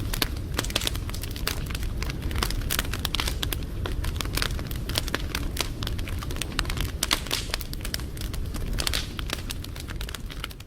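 Wood fire crackling, with dense irregular pops and snaps over a steady low rumble from the burning.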